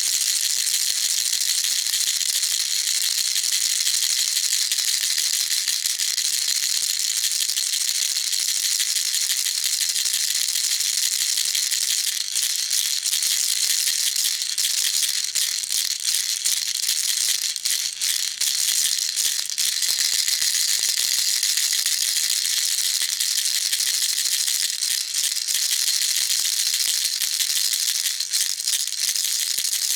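Baby rattle shaken continuously, giving a dense, unbroken, high-pitched rattling with no pauses between shakes.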